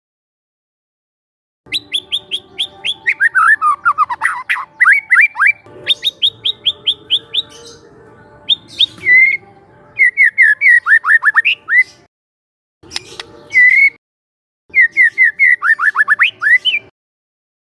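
A young wild white-rumped shama singing loud phrases of rapid repeated chirps and quick down-slurred whistles. The phrases break off suddenly into short silent gaps.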